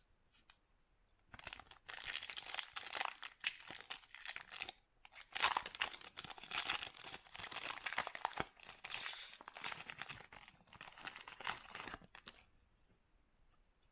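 Foil trading-card pack wrapper being torn open and crinkled by hand, in several stretches of crackling over about eleven seconds.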